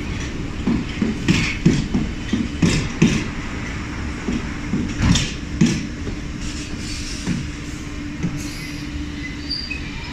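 London Underground train running on the rails: wheels clacking irregularly over rail joints above a steady low rumble and hum. The clacks come thick in the first few seconds and thin out in the second half.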